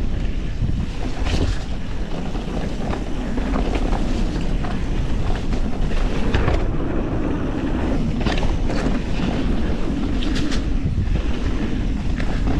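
Wind buffeting the camera microphone over the steady rumble of mountain bike tyres on a dirt trail, with frequent sharp clicks and clatters as the bike rolls over rough ground.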